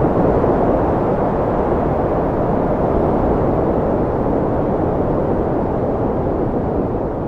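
Wind blowing, a steady deep rush of noise with no distinct gusts, easing slightly near the end.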